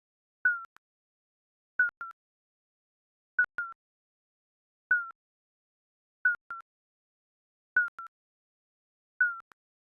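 Digital countdown timer beep sound effect: a short, slightly falling electronic beep followed by a quieter click, repeating about every one and a half seconds, seven times.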